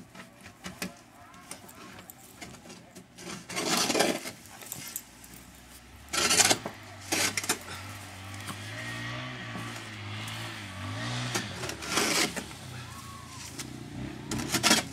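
A motor vehicle's engine runs low and steady in the background from about five seconds in until nearly twelve, and again near the end. A few short, loud bursts of rustling noise sit on top of it.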